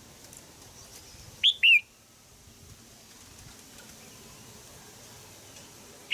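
Red-whiskered bulbul hen in a cage giving a sharp two-note 'jiak' call about a second and a half in, then again at the very end. The call repeats every few seconds and is used to spur a young male to sing.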